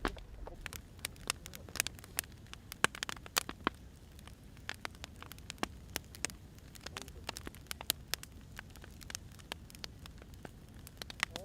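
Firewood burning, with irregular sharp pops and snaps over a low steady rumble of flames.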